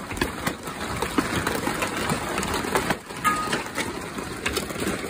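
Hailstones pelting down hard: a dense, irregular patter of sharp impacts over a steady rushing of storm noise.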